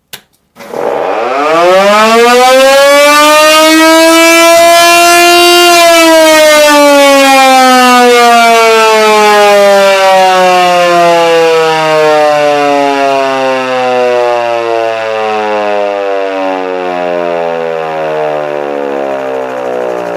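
Federal Signal Model 2 electromechanical siren, freshly restored and running on 120 V, winding up from a click at switch-on to a loud rising wail over about five seconds. Power is then cut and the tone slowly falls in pitch as the rotor coasts down.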